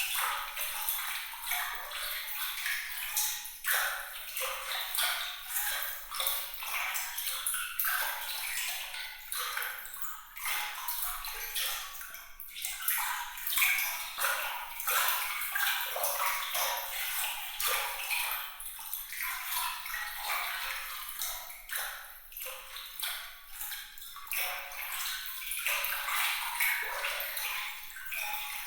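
Water trickling and splashing in a continuous patter of small, bright, pinging droplets, with no low rumble.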